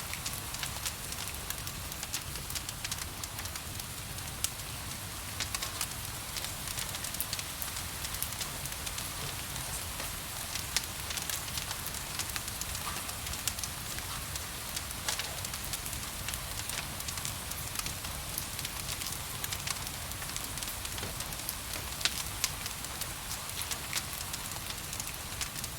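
Wood fire in a fireplace crackling, with frequent irregular small pops and snaps, over a steady hiss of gentle rain.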